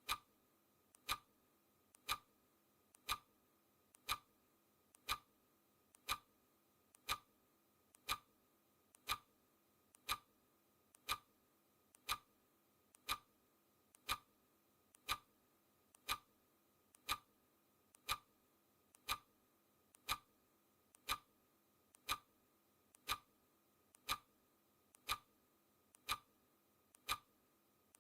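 Clock ticking once a second, alternating between a louder and a softer tick.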